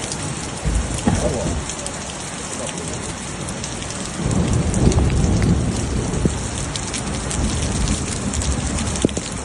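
Heavy rain pouring down in a dense hiss full of small drop impacts, with a deeper rumble swelling in about four seconds in and easing off near the end.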